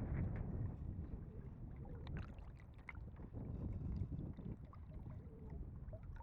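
Wind buffeting the microphone in an uneven low rumble, with light water splashing and small scattered clicks over it.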